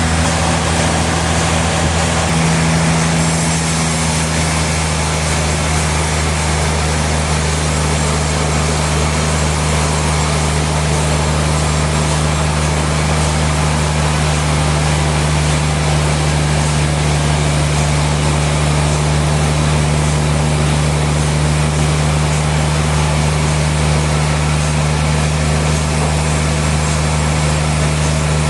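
Sawmill machinery running steadily: a constant low motor hum with an even hiss of saw noise over it.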